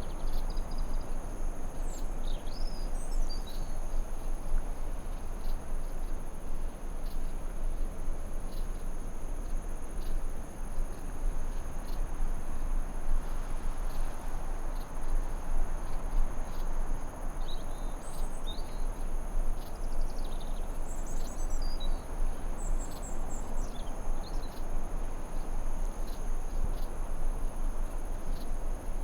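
Forest ambience: a continuous high-pitched insect drone, with a steady rushing noise beneath it. Short bird chirps come in a couple of times near the start and again in a cluster about two-thirds of the way through.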